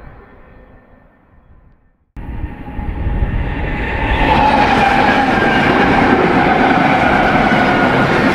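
A BNSF freight train dies away to near silence. After an abrupt cut about two seconds in, the next BNSF freight train comes in, quickly growing loud. Its locomotives and its wheels on the rails then make a steady din, with a few held tones on top.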